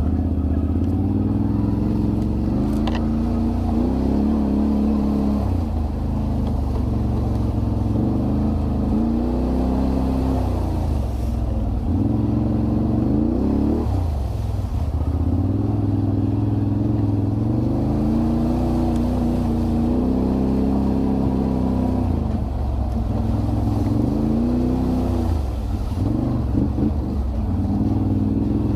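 Can-Am Renegade 1000 ATV's V-twin engine under way, its pitch rising and falling again and again as the throttle is opened and eased off.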